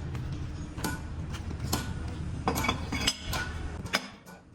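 Hand tools and metal parts clinking and knocking against each other, a few sharp strikes with short ringing, over a steady low hum that cuts off about four seconds in.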